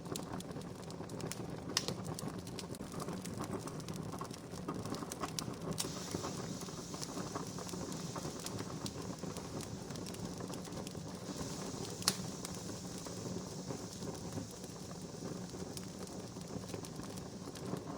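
Wood campfire crackling steadily, with many small snaps and two louder sharp pops, about two seconds in and about twelve seconds in.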